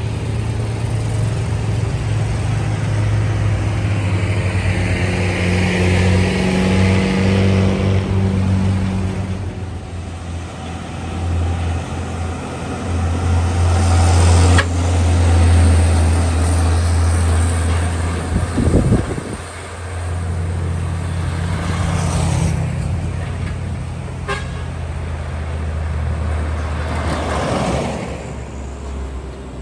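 Heavy diesel trucks passing one after another, engines running low and steady, with tyre and engine noise swelling as each goes by and a horn sounding.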